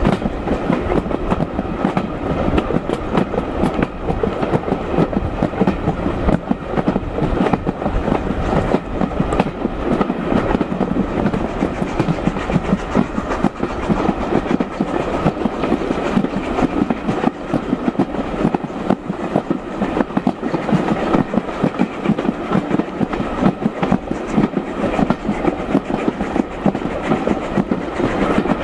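Passenger train running along the line: a steady rumble with the wheels clattering over the rail joints and the carriage rattling.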